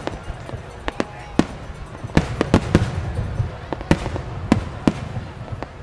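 Starmine aerial fireworks barrage: shells bursting in a quick, uneven run of sharp bangs over a low rumble. The bangs come thickest about two to three seconds in.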